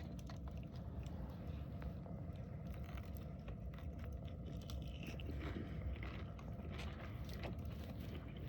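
A person chewing crisp campfire-cooked bacon, with faint scattered crunches and mouth clicks over a steady low rumble.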